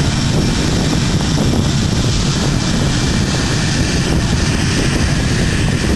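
An aircraft flying past, its engine noise a loud, steady rush with a deep rumble underneath.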